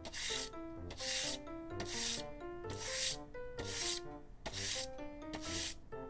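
Rhythmic rasping strokes, about one a second, like sanding or filing a small part, over background music with a plucked melody.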